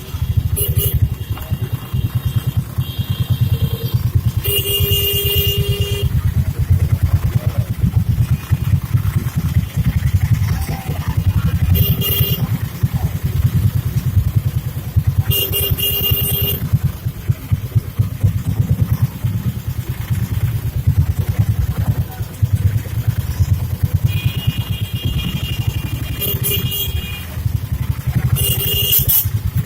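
Busy street traffic heard from a moving rickshaw: motorcycle engines and a low rumble throughout, with vehicle horns honking again and again, a longer blast about five seconds in and a cluster of honks near the end.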